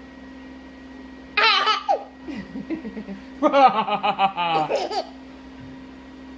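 A baby laughing at high-pitched playful vocal noises, with a long run of quick pulsing laughter in the middle that stops about a second before the end.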